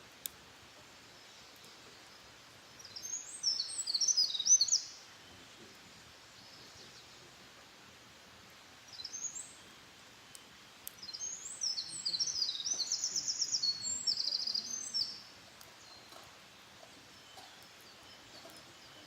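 A wild songbird singing in three high-pitched phrases of rapid, tumbling notes: one about three seconds in, a short one near nine seconds, and a long one with a fast trill from about eleven to fifteen seconds. A single sharp click sounds just after the start.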